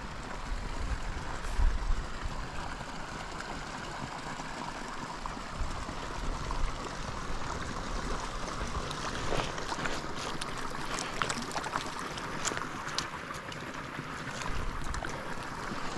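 River water rushing steadily, with wind buffeting the microphone in the first couple of seconds and scattered short sharp ticks in the second half.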